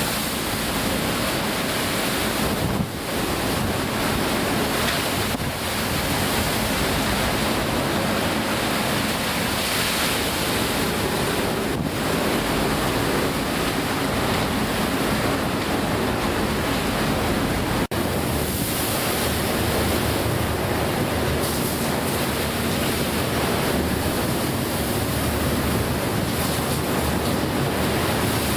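Storm wind and heavy breaking seas around a ship at sea, with wind buffeting the microphone: a loud, steady rush of noise. The low rumble shifts abruptly about two-thirds of the way through.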